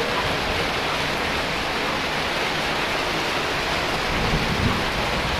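Heavy rain pouring down steadily, a dense even hiss, with a brief low thump about four and a half seconds in.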